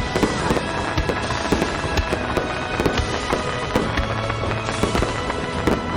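Star mine fireworks barrage: a dense run of sharp bangs and crackles, several a second, with music playing underneath.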